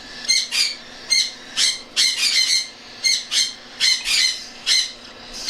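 Baby cockatiel chicks giving short, raspy begging calls over and over, about two a second: the hungry food-begging of hand-fed chicks waiting for the syringe.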